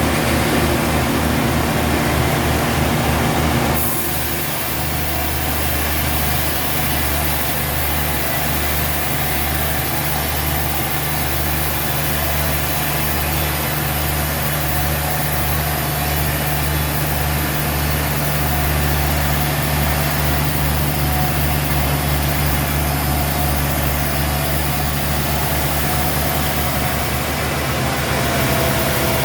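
Sawmill machinery running: a steady engine hum with an even low pulse. About four seconds in the sound shifts and a high hiss comes in and holds until near the end.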